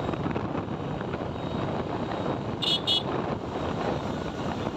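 Steady wind rush on the microphone and road noise from a moving motorcycle on a highway. About two and a half seconds in, two short high-pitched sounds come quickly one after the other.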